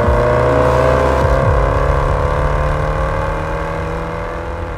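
Range Rover Sport SVR's supercharged 5.0-litre V8 accelerating hard, its engine note climbing slowly and steadily, then breaking off sharply near the end.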